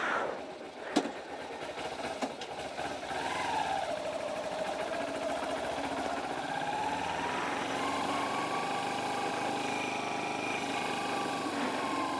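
Kawasaki Ninja 250R's 249 cc parallel-twin engine pulling away: a sharp click about a second in, a short rise in revs, then the engine note climbs slowly and holds steady as the bike gets under way, over a steady hiss.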